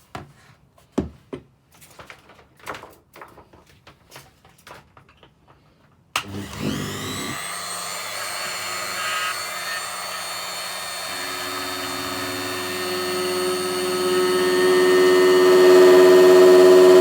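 A few clicks and knocks, then about six seconds in an oscillating multi-tool starts with a steady buzz. It grows louder toward the end as its narrow knife blade cuts the old caulking out of the teak deck seams.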